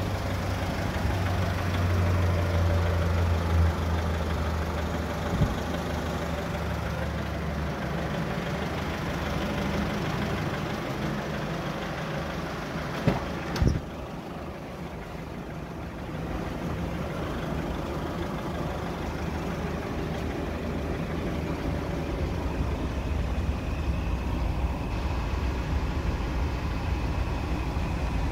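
Mazda 5's 2.0-litre four-cylinder diesel engine idling steadily, with two sharp knocks about halfway through.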